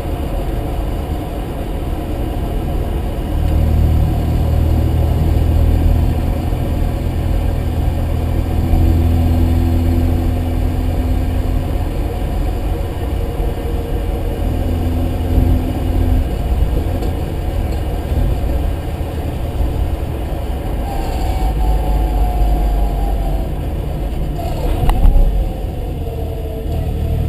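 Mazda RX-7's rotary engine and drivetrain running under way, louder for a stretch early on. A whine falls in pitch near the end, with a sharp thump a couple of seconds before the end.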